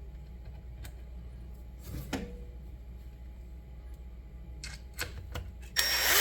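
Scattered light clicks and knocks of tools and parts being handled, then a power drill runs briefly near the end.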